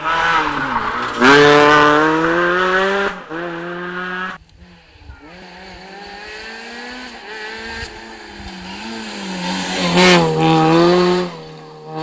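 Rally car engine under hard acceleration, its pitch climbing through the revs and dropping sharply as the driver lifts or changes gear. It drops away about four seconds in, then pulls again to a loud peak near ten seconds before backing off.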